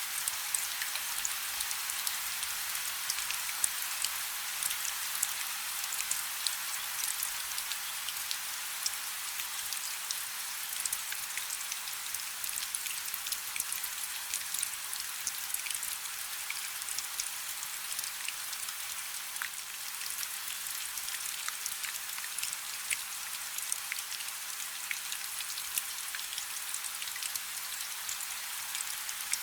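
Light rain falling steadily, a continuous fine patter of many small drops hitting a surface, with no low rumble.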